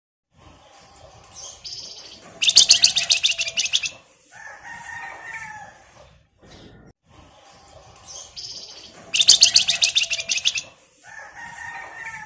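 Flamboyan (wergan Jawa) song, a phrase heard twice. Each phrase has a short high note, then a loud, fast buzzing trill of about a second and a half, then a few lower whistled notes. The two phrases are near-identical, as in a looped lure recording.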